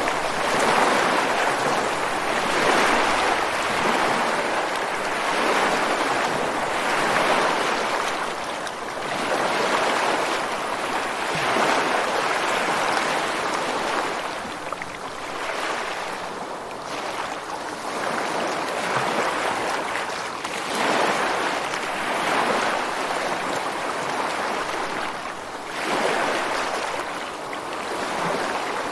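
Ocean surf breaking on a beach: a continuous rushing wash of water that swells and eases every few seconds as each wave comes in.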